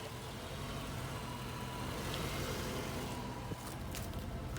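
1990 Ford Mustang engine idling steadily, running again after a crank-no-start fault caused by a failed distributor.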